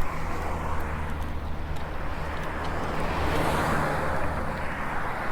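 E-bike riding noise: a steady low motor hum under rushing tyre and air noise that swells to a peak about three and a half seconds in, then eases.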